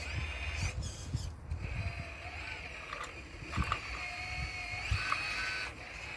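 Model RC excavator working, its electric motors and hydraulic pump whining steadily, with the pitch shifting as it moves. Sharp knocks come about three and a half and five seconds in.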